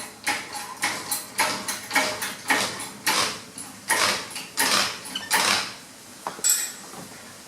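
A quick, irregular series of metallic clanks and knocks, about two a second, from things being handled and moved during garage work.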